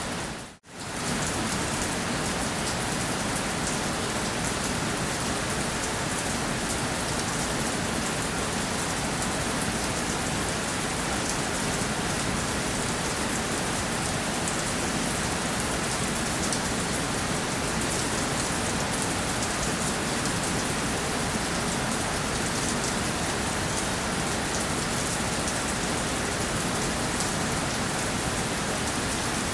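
Steady rainfall, an even hiss of drops landing on a surface. About half a second in it dips out briefly and fades back in.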